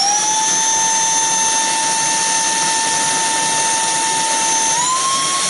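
SERVOMASTER cordless handheld vacuum cleaner's motor spinning up and running with a steady high whine. About five seconds in, the whine steps up in pitch as it switches to the higher of its two suction speeds. The motor is a bit noisy.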